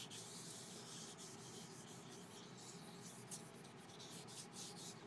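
Faint rubbing of a cloth working Danish oil over the surface of a turned laburnum bowl, a soft uneven scratchy swish.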